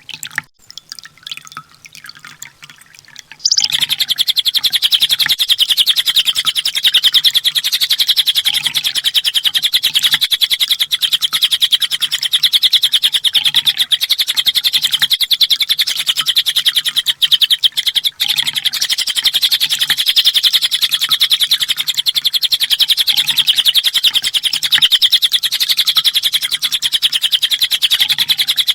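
Sunbird (kolibri ninja) song: after a quieter few seconds, a high, continuous trill of very fast repeated notes sets in about three and a half seconds in and goes on without a break.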